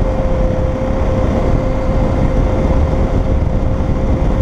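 Steady motorcycle riding noise heard from on the moving bike: engine rumble and road and wind noise, with a steady, constant-pitch hum running through it.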